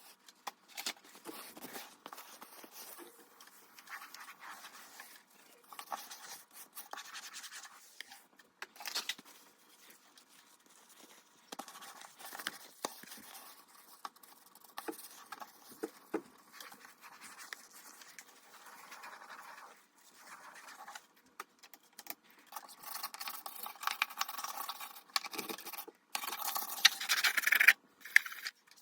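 Scratching and rubbing of a fridge top being cleaned by hand, with scattered clicks and knocks. It gets busier and louder in the last few seconds.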